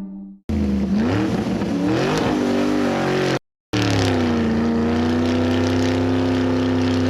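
Car engine revving, rising and falling in pitch for about three seconds. It cuts out abruptly for a moment, then comes back, drops in pitch and runs on steadily.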